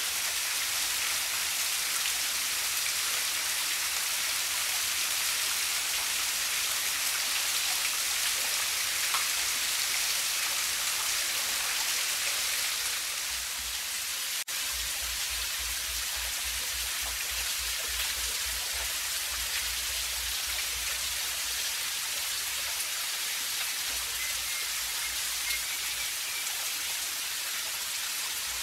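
Waterfall splashing, a steady hiss of falling water, with a brief break about halfway through.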